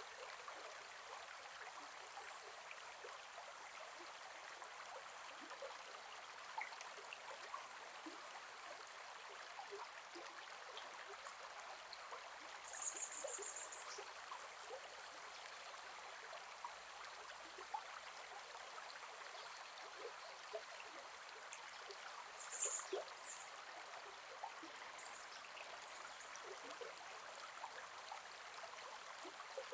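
Gentle forest river flowing: a steady, soft rush of water with small trickling ticks. Two brief high chirps stand out, near the middle and again about three-quarters of the way through.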